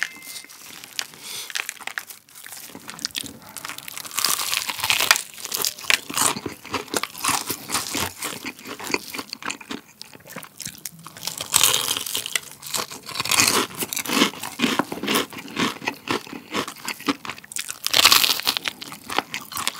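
Close-miked crunching and chewing of crispy fried chicken coated in garlic breadcrumb flakes, a dense crackle of small crunches. A loud crunchy bite comes near the end.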